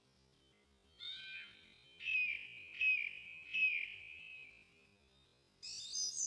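Slowed-down recording of birdsong: after about a second of quiet comes a run of four or five pitched, sliding notes, then a pause and a higher, brighter call near the end.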